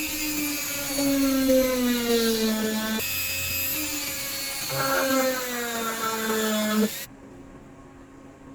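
A small electric power tool's motor whining, its pitch slowly falling, in two runs. It stops shortly before the end.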